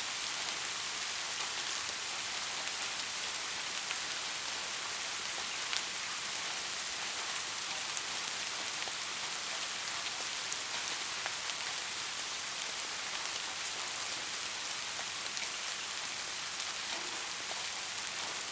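Steady rain, an even hiss with scattered sharp ticks of individual drops.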